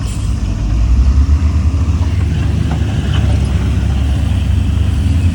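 Heavy earthmoving diesel engine running steadily with a deep low rumble, growing a little louder about a second in.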